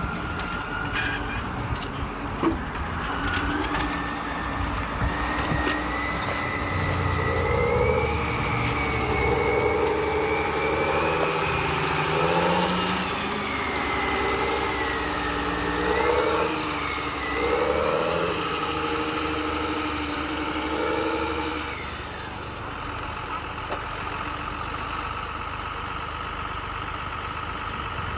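Vehicle engine running, its pitch rising and falling repeatedly for most of the time, then settling into a steadier drone for the last few seconds.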